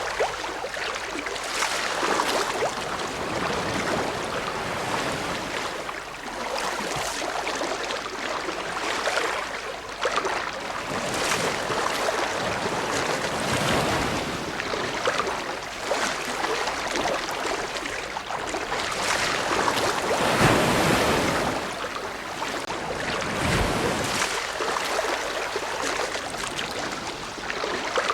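Ocean waves breaking and washing on the shore: a steady rush of surf that swells and ebbs every few seconds, with one bigger wave about two-thirds of the way through.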